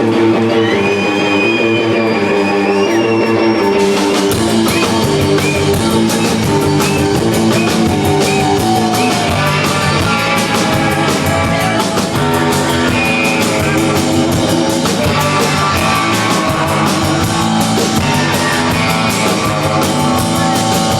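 Rock band playing live, electric guitars over a drum kit, with the cymbals and drums coming in thick from about four seconds in.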